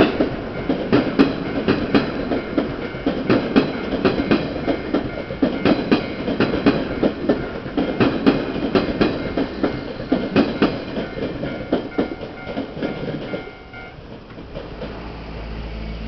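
Hanshin electric train rolling over the level crossing, its wheels clattering over the rail joints in many irregular clacks. The clatter dies away about 13 seconds in, leaving a quieter low rumble.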